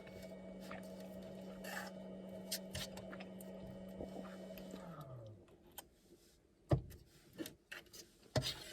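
A small electric motor hums steadily for about five seconds and then winds down, falling in pitch. A few sharp knocks and clicks follow near the end.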